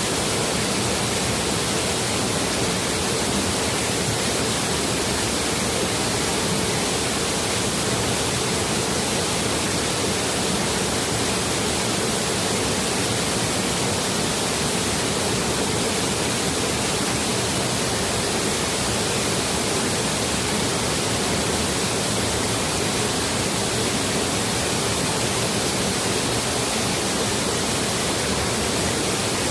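Steady rushing of a small waterfall and stream, an even unbroken wash of water noise.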